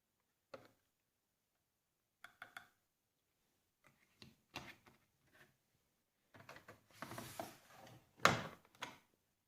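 AEG Öko-Lavamat 88840 washing machine being handled, with no motor or drum running: a series of separate mechanical clicks and knocks, including a quick run of three clicks, busier clatter near the end and one louder knock.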